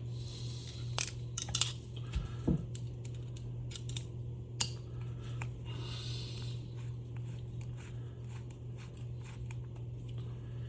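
Small metal parts clicking and clinking a few sharp times in the first five seconds, with light scraping between, as screws and washers are handled and fitted on a motor; a steady low hum underneath.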